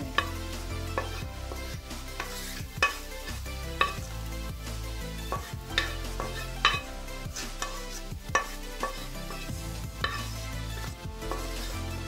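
Wooden spatula scraping fried onions out of a frying pan, with several sharp knocks of the spatula against the pan rim, over background music with a low stepping bass line.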